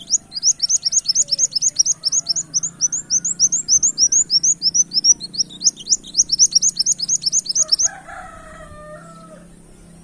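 Kolibri wulung sunbird singing: a fast run of short, high, rising chirps, about five a second, that stops near the end, followed by a brief lower-pitched warble.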